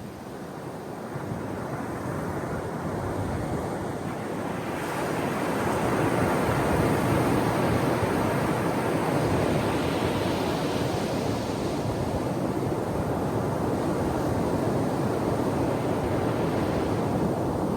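Ocean waves breaking on the shore, a continuous rushing surf that builds about five seconds in as a wave crashes, then stays loud.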